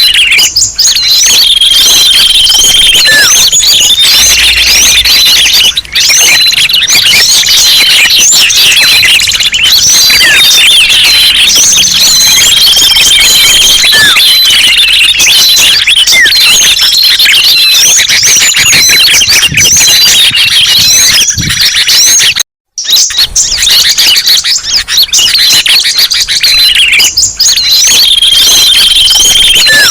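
Bird-lure recording: a loud, dense chorus of small songbirds chirping and twittering over one another, with a held high whistle coming back every several seconds. The sound cuts out for a moment about two-thirds of the way through.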